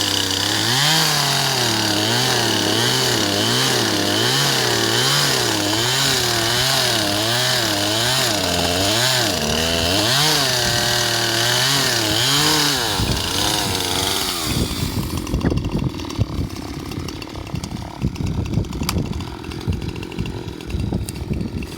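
Chainsaw engine running with its speed surging up and down about once a second. About 13 seconds in it runs down and stops. After that come irregular crackles and knocks.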